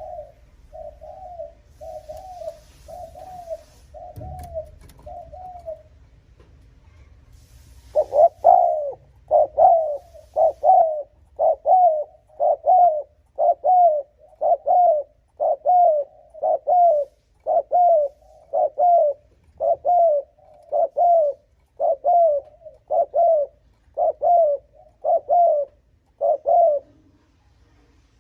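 Spotted dove cooing: a run of short coos about one a second, soft at first, then after a two-second pause a louder, steady series of coos that stops shortly before the end.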